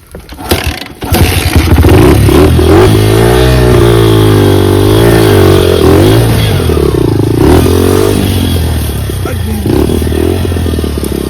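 Dirt bike engine: a few sharp knocks in the first second, then the engine runs hard, its pitch rising and falling again and again as the throttle is worked on a climb attempt. It eases somewhat near the end.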